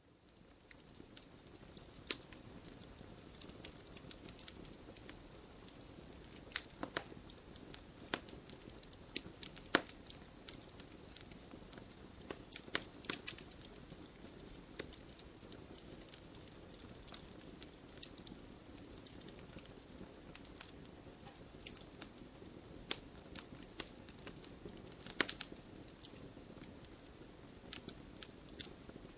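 Fire burning in a fireplace: a soft steady hiss and rumble of flames with frequent sharp, irregular crackles and pops.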